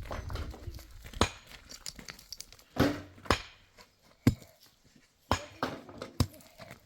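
Irregular sharp knocks and clinks of hard objects being handled, about half a dozen, with softer rustling between them.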